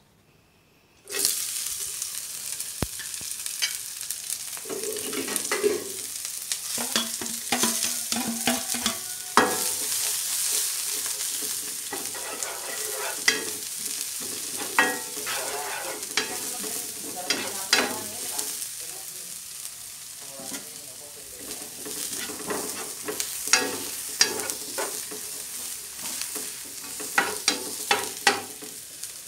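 Chopped shallots, garlic, green chilies, spring onion and celery dropped into hot oil in a nonstick frying pan, sizzling at once about a second in. A spatula then stirs and tosses them, its sharp clicks and scrapes on the pan over a steady sizzle.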